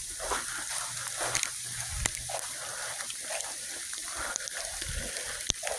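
Heavy sleet falling: a steady hiss with scattered sharp ticks of ice pellets striking surfaces.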